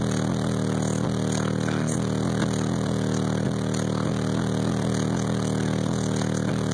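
Six SMD 18-inch subwoofers holding a sustained low bass tone at very high level, heard from inside the truck as a steady, buzzing drone with many overtones.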